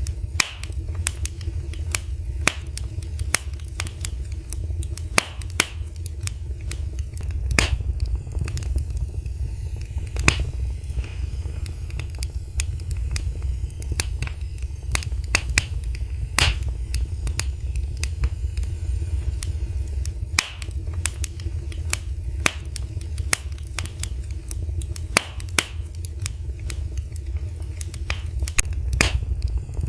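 Wood fire in a fireplace crackling, with frequent irregular sharp pops and snaps over a steady low rumble of the burning flames.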